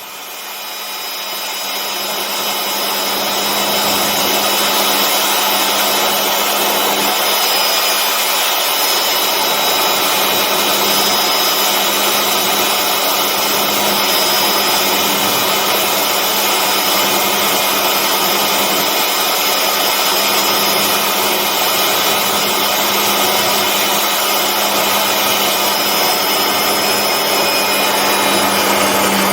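MD 500D helicopter's turbine engine and rotor running steadily: a dense rushing noise with a steady high whine. It grows louder over the first few seconds, then holds level.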